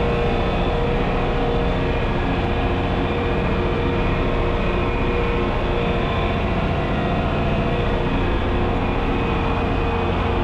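John Deere 6030's six-cylinder turbocharged diesel engine running steadily under load, pulling a six-bottom moldboard plow.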